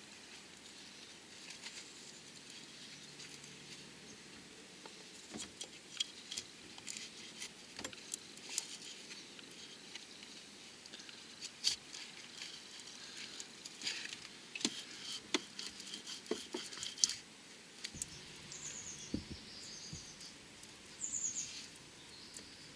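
Faint, irregular small clicks and light scrapes of hand work on metal car parts and tools, with a couple of short high squeaks near the end.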